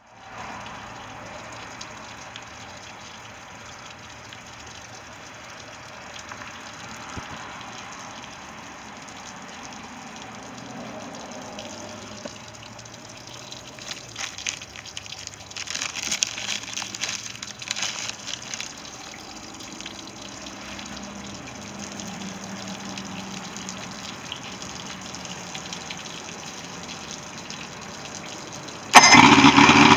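Water running steadily, with a stretch of louder irregular clattering midway. About a second before the end the Evinrude 75 hp outboard motor starts and runs loudly.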